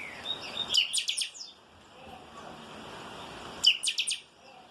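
Chopi blackbird (chanchão) singing the song breeders call 'calçada baixa': two short bursts of sharp, rapid notes, one about a second in and another near the end.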